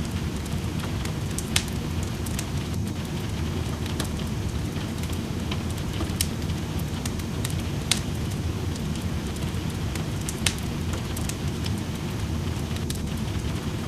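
Wood fire crackling in a fireplace, with small ticks throughout and three sharper pops, over a steady hiss of rain.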